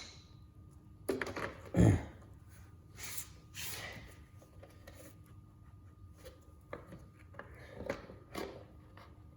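Hands handling scooter parts during reassembly: a few sharp knocks and clatters about a second in, a scraping rustle a couple of seconds later, then lighter clicks near the end.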